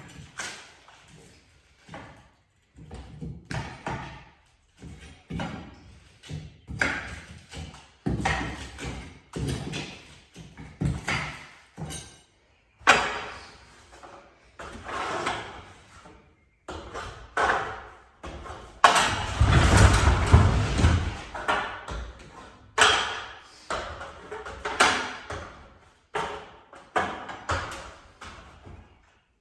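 Hand demolition on painted wooden trim and plaster walls: repeated scraping, prying and knocking in short irregular strokes, with a heavier run of thuds about two-thirds of the way through.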